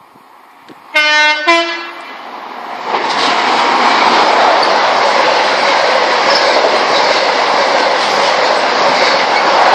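HST (InterCity 125) sounding its two-tone horn about a second in, a short lower note followed by a higher one. Then the train passes at speed, a loud steady rush of wheels and engine that builds from about three seconds in.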